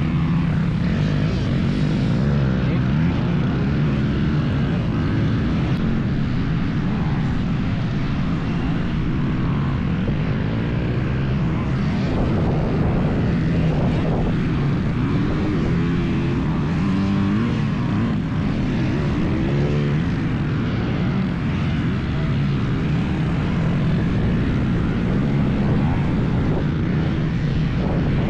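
Old two-stroke dirt bike engine being ridden hard, its pitch rising and falling repeatedly as the rider works the throttle and gears.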